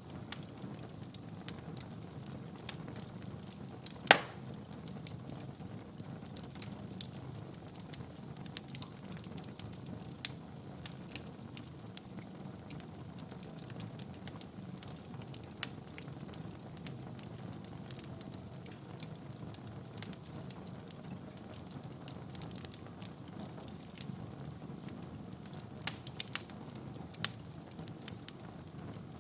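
Wood fire in a fireplace crackling: a low steady rumble of flames with scattered sharp pops. One loud pop comes about four seconds in, and a few more come close together near the end.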